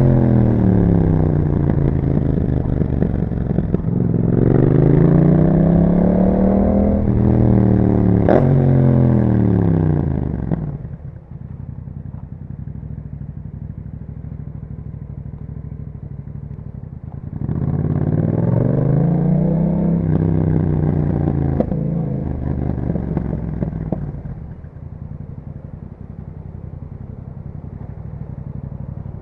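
Yamaha MT-07's parallel-twin engine through an Akrapovic exhaust, its pitch rising under acceleration and falling as it slows, twice. About eleven seconds in and again near the end it drops to a low, steady idle.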